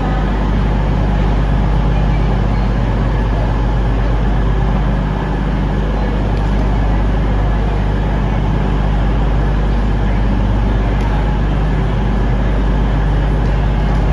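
A train standing at the platform with its engines or equipment running: a steady, loud low hum.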